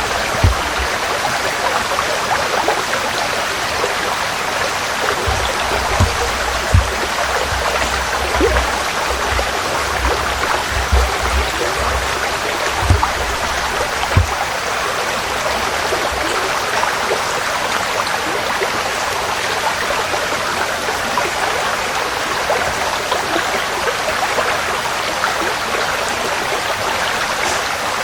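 Forest stream flowing steadily, an even rushing and splashing of water over stones. Brief low thumps come and go in roughly the first half.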